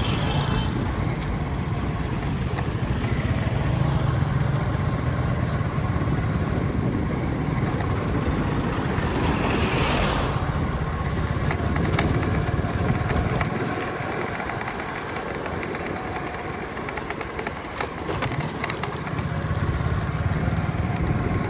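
Steady road and engine noise of a vehicle on the move, with a whoosh about ten seconds in. The low rumble eases a little after about thirteen seconds.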